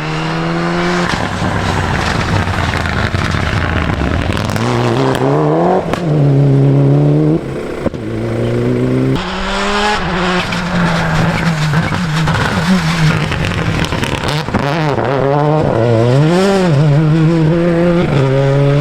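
Rally car engine driven hard, its pitch climbing through the gears with sudden drops at each shift. Later come quick up-and-down swings of revs, like throttle blips on downshifts.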